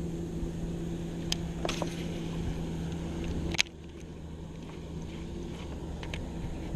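A motor hums steadily, with a few sharp clicks over it, then stops suddenly about three and a half seconds in, leaving a fainter low rush of outdoor noise.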